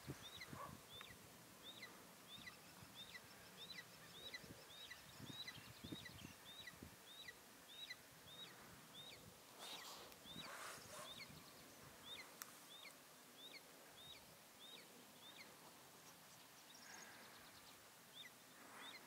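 Faint, long series of short high chirps, each slurring downward, about two a second from a young bird of prey at the nest; they pause briefly near the end and start again. A short rustle about halfway through.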